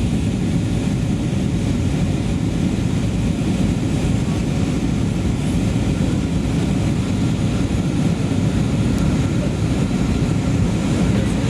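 Airbus A320 in flight, a steady low rumble of engine and airflow noise as heard inside the cabin.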